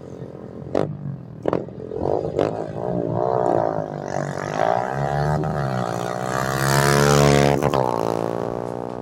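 Motorcycle engine at high revs during a drag race, its pitch rising and falling with gear changes, with a few sharp cracks early on. It grows louder to a peak about seven seconds in, then drops in pitch as it goes past.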